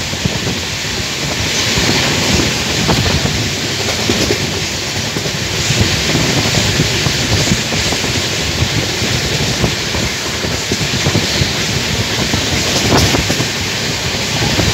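Rajya Rani Express passenger coach running at speed, heard from its open door: a loud, steady rush of wheels on rails and wind on the microphone, with scattered clicks from the rail joints.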